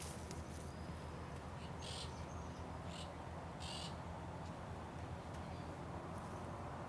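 A few short, high bird chirps over a steady low hum of outdoor background.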